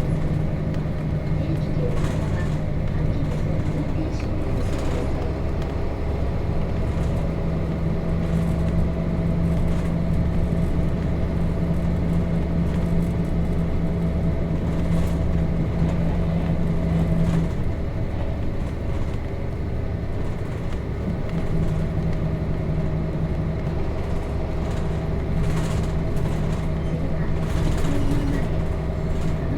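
Nissan Diesel KC-RM211GSN bus's FE6 inline-six diesel engine running steadily under way, heard from inside the cabin. A little past halfway the engine note drops away for a few seconds, then comes back.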